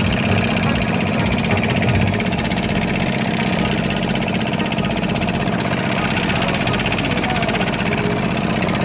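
Boat engine running steadily with an even, fast chugging.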